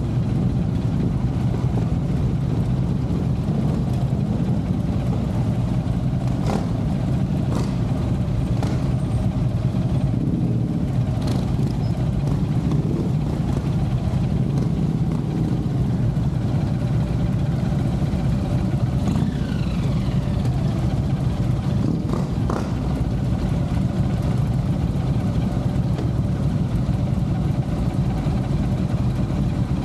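Cruiser motorcycle engine idling steadily at close range.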